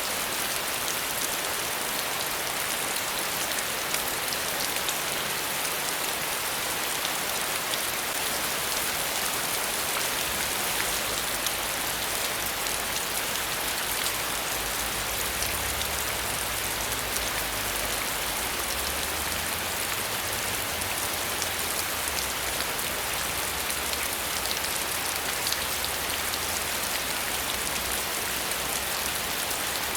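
Steady rain falling: a dense, even hiss with small ticks of individual drops.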